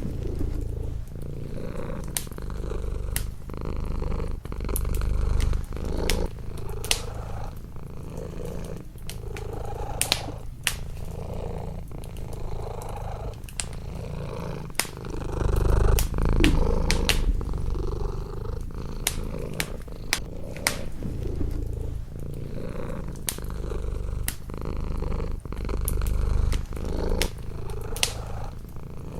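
Domestic cat purring close up, the purr swelling and fading with each breath, over a wood fire crackling with frequent sharp pops.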